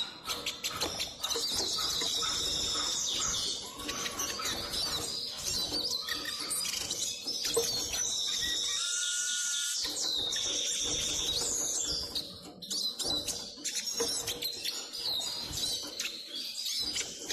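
Eurasian siskin singing: a fast, continuous twittering of high chirps and trills, with a lower drawn-out note about nine seconds in. Frequent short clicks run under the song.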